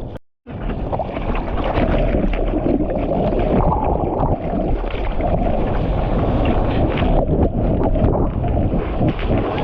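Steady wind buffeting the microphone over the rushing wash of choppy surf. The sound cuts out for a moment just after the start.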